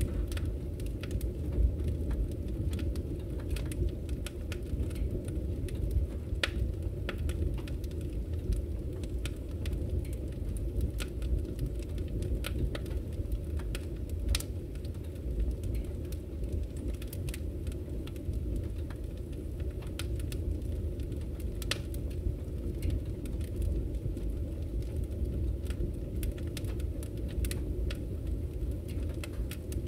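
Wood fire crackling in a fireplace: a steady low rumble of the flames with scattered, irregular sharp pops and snaps.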